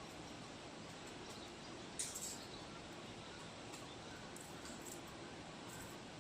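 Fresh bamboo shoots being peeled by hand: short, crisp tearing and snapping of the husks, the sharpest about two seconds in. Faint bird chirps can be heard as well.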